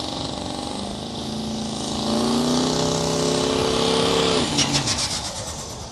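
Diesel pulling truck's engine revving up and holding at high revs, then dropping off sharply about four and a half seconds in, followed by a brief rapid fluttering.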